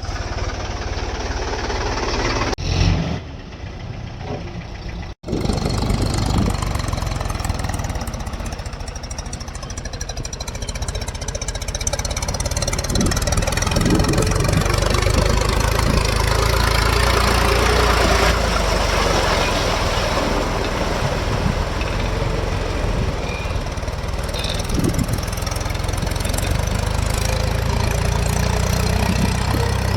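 Mahindra 275 DI TU tractor's three-cylinder diesel engine running as the tractor works in mud. The sound drops, then cuts out for an instant about five seconds in, and grows louder toward the middle.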